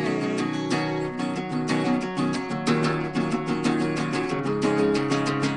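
Guitar strummed in a steady rhythm, chords of a song played solo without vocals.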